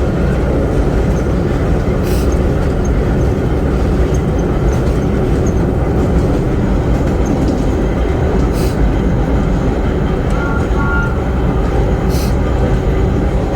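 Vintage R1-R9 subway cars in motion: a loud, steady rumble of wheels and motors on the track, with a few short sharp clicks and a brief faint squeal.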